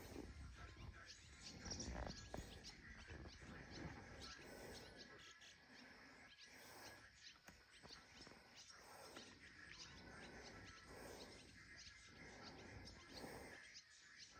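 Near silence: faint outdoor ambience with scattered soft bird chirps.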